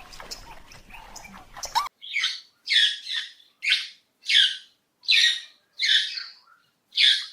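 A bird calling over and over: a run of about nine short, high calls, roughly one every 0.7 s, starting about two seconds in after faint clicks.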